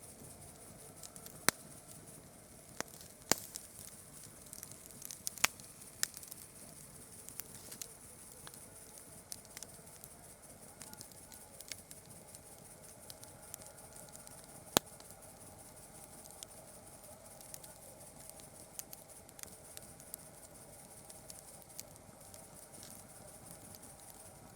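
Campfire wood crackling with irregular clicks and several sharp, loud pops, most of them in the first six seconds and one more about halfway through, over a steady high-pitched hiss.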